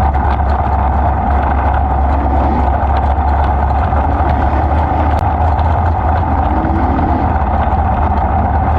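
410 sprint car's V8 engine running loud and steady, with no rise or fall in pitch.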